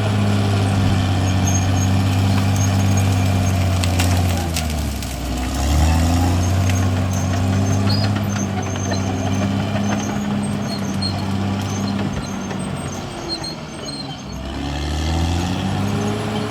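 CAT D6R XL bulldozer's diesel engine running under load, its pitch sagging and then climbing back twice, about five seconds in and again shortly before the end.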